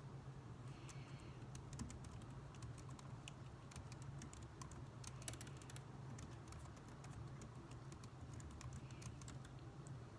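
Typing on a computer keyboard: quiet, irregular key clicks over a low steady hum.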